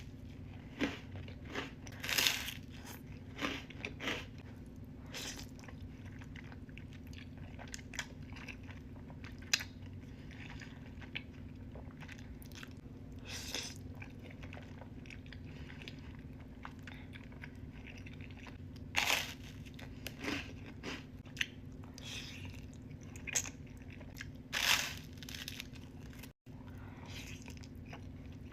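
Close-miked eating sounds of a person biting and chewing food, with irregular sharp mouth noises coming every second or two over a steady low hum.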